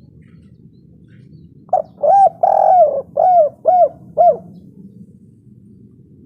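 Spotted dove (tekukur) cooing: one phrase of about six arched coos starting a little under two seconds in, the third note drawn out longer and the last three short, over a low background rumble.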